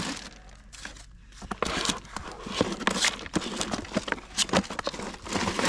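Irregular clicks, knocks and crinkling of things being handled, with a quiet stretch in the first second or so.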